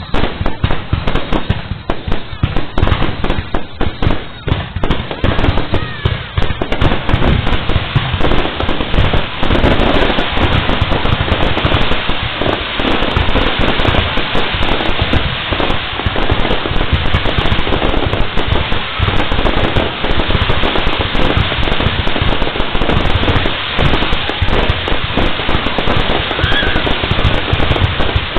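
Fireworks display: rapid bangs and crackling. Separate bangs for the first few seconds merge into a dense, unbroken crackle.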